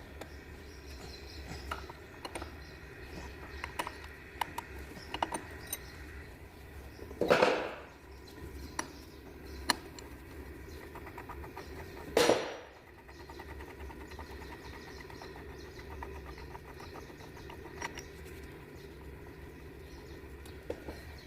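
Hand tools clicking and clinking on an engine during timing belt work, over a steady workshop hum, with two short, loud bursts of noise about seven and twelve seconds in.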